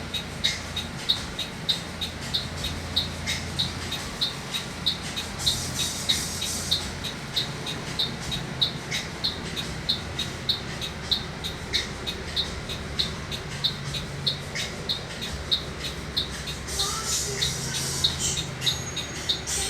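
Mercedes-Benz OC 500 RF bus diesel engine idling with a steady low hum, while a high-pitched electronic beeper chirps evenly about twice a second.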